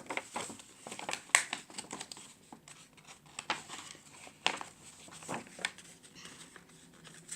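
Paper airplane folded from a large A3 sheet rustling and crinkling as it is handled, with scattered short taps and rustles.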